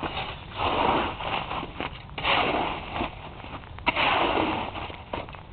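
Crunching of crusted sleet and ice being broken up, in rough bursts about every second and a half, with a sharp crack near four seconds in.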